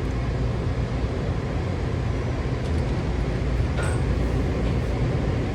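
Steady low rumble of a Washington Metro train at a station platform, with a faint brief high tone about four seconds in.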